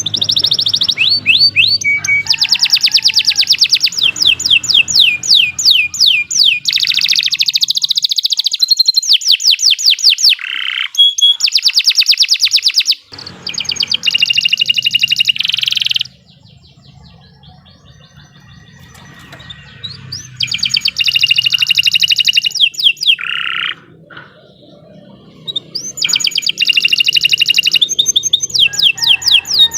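Domestic canary singing a long, loud, high-pitched song of rapid trills and rolls: fast runs of repeated notes. It breaks off for a few seconds past the middle and pauses briefly again before resuming.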